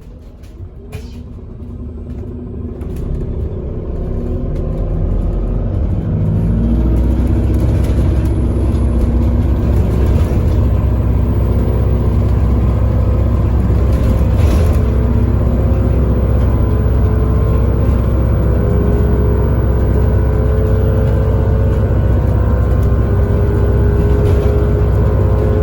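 Single-decker bus's diesel engine and drivetrain heard from inside the bus, quieter at first and then pulling away about six seconds in. A whine climbs slowly in pitch as the bus gathers speed.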